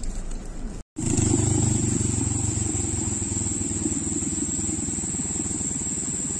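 A moving vehicle's engine and road noise: a steady low rumble that begins after an abrupt cut about a second in, with a constant high-pitched whine over it.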